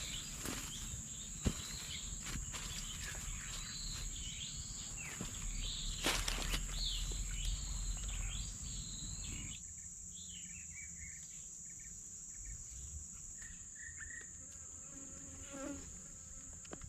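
Insects droning in a steady, high-pitched tone, with a run of short chirping calls over the first half that then die away. One sharp click about a second and a half in.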